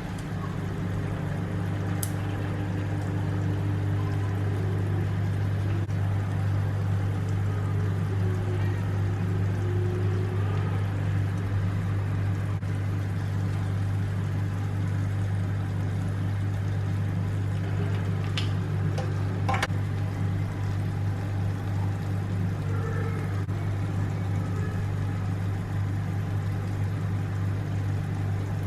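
A steady low hum with a few light clicks.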